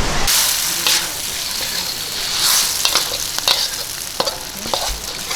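Food sizzling in a frying pan, a steady high hiss that starts suddenly just after the beginning, with scattered sharp clicks through it.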